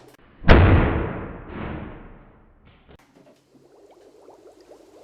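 Acetylene gas igniting inside a carved pumpkin: one loud bang about half a second in, blowing out the carved pieces, its noise fading over about two seconds with a weaker second surge about a second after the bang.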